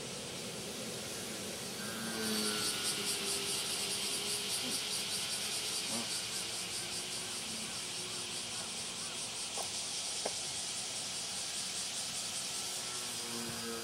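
Cicadas buzzing in a rapidly pulsing drone that sets in about two seconds in, with the faint whine of a model pylon-racer airplane's motor sliding up and down in pitch as it flies past.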